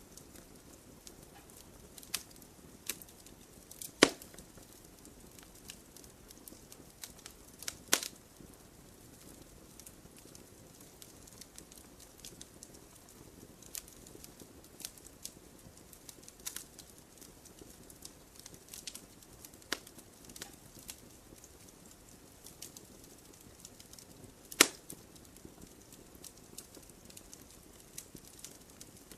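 Wood campfire crackling: scattered small crackles and snaps over a soft hiss, with three louder sharp pops, about four and eight seconds in and again near the end.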